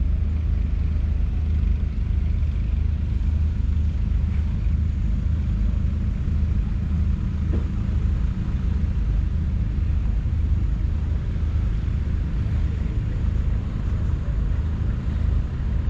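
The Massey Ferguson 8S.305's 7.4-litre six-cylinder diesel engine running steadily, a continuous low rumble.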